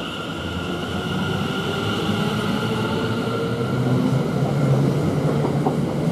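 Greater Anglia Class 720 electric multiple unit pulling out of the station, its running noise growing steadily louder as it gathers speed, with steady high-pitched tones over it.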